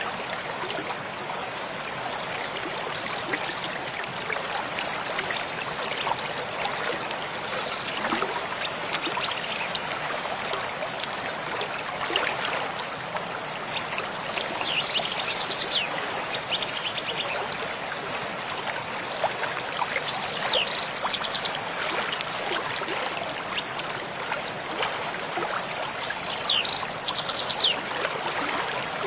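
Mountain stream flowing steadily. A songbird sings three short, fast trilled phrases, the first about halfway through and the others roughly five to six seconds apart.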